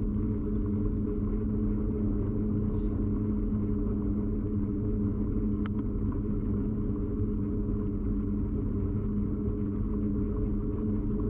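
Steady rumbling hum of a bicycle ride, carried into a camera fixed to the bike, with a brief click about six seconds in.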